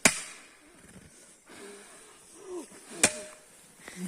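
Someone blowing on smouldering kindling to get a struggling campfire to catch, with faint breathy puffs. Two sharp knocks come about three seconds apart, one at the start and one near the end.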